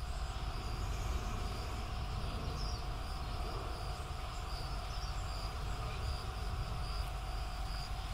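Outdoor zoo ambience: a steady low rumble with insects chirping in a high, evenly repeating pulse.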